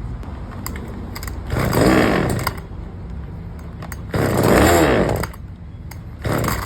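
Daewoo one-hand chainsaw's small two-stroke engine idling, blipped up to higher revs twice for about a second each and once briefly near the end, the pitch rising and falling each time. The customer's complaint is that it does not run well.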